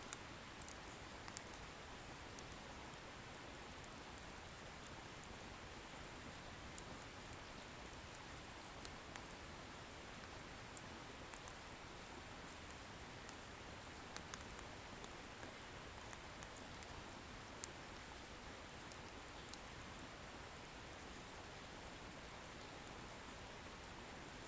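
Wood bonfire burning: a steady hiss with scattered small crackles and pops at irregular intervals.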